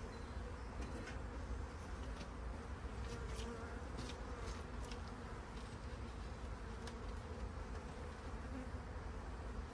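Honeybees buzzing steadily around an open, crowded colony as its frames are worked, with a few short clicks scattered through it.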